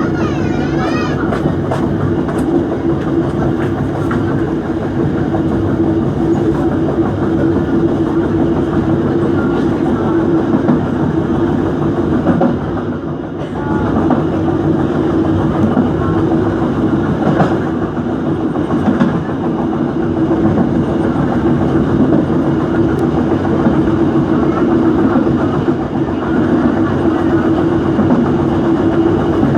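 Dhoho passenger train running along the track, heard from on board: a steady rumble and hum, with the wheels clacking over the rail joints.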